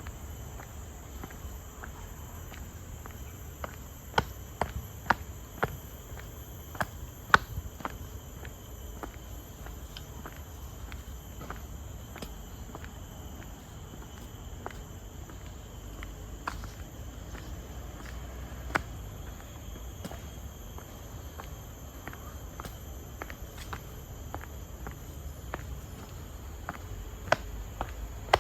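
Tropical forest insects, crickets and similar, keeping up a steady high-pitched shrill chorus, with irregular sharp footsteps on the path, bunched about four to eight seconds in and again near the end.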